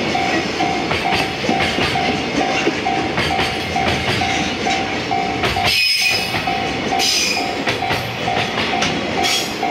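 Freight train of container flat wagons rolling past, wheels clattering over the rail joints. Under it, a repeating tone sounds about twice a second.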